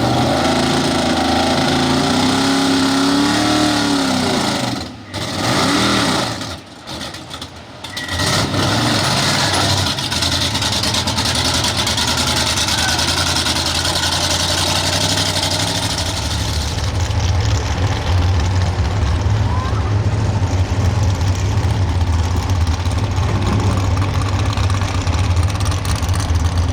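Small-block super stock 4x4 pulling truck engine running hard, its pitch swinging up and down for the first few seconds. Two brief drops in level follow, then a long stretch of loud, steady engine noise that turns into a deep rumble for the last ten seconds.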